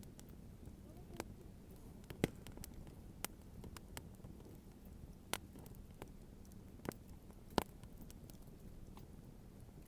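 Wood fire crackling: irregular sharp pops and snaps of burning wood over a steady low background noise, with the loudest snap about three-quarters of the way through.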